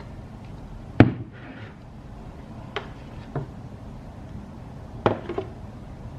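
Several sharp knocks and clacks of hard objects being handled and set down on a hard surface: one loud knock about a second in, two lighter ones around three seconds, and a quick run of two or three near five seconds.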